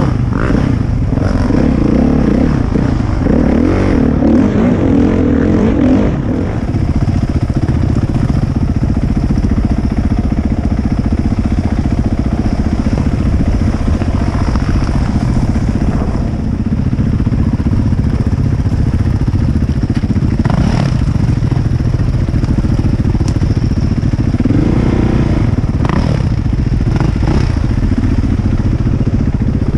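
450cc four-stroke dirt bike engine running on a trail ride, the revs rising and falling through the first few seconds and again near the end, steadier in between. A few sharp knocks come through in the second half.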